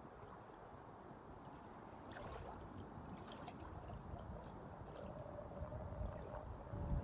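Small waves lapping and sloshing against the shore, with a low rumble of wind. A faint steady hum comes in about halfway through.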